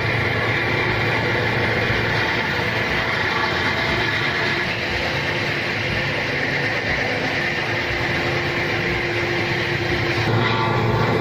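Heavy machinery running with a steady, dense mechanical noise, which changes abruptly about ten seconds in.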